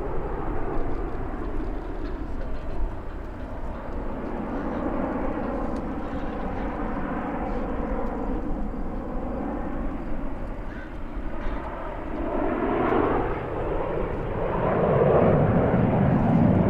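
Canadair CT-114 Tutor jets of the Snowbirds team flying by, their turbojet engines running with a pitch that slowly shifts. They get louder over the last few seconds.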